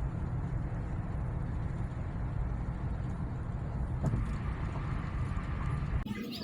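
Steady low rumble of road and engine noise inside a moving car's cabin. It cuts off suddenly near the end.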